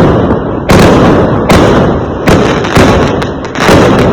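Fireworks going off in quick succession: about five loud bangs, roughly one every three-quarters of a second, each trailing off in a rumbling echo.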